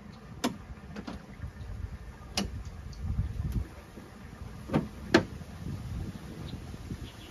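A handful of sharp knocks and clicks, the loudest two close together about five seconds in, over a low rumble.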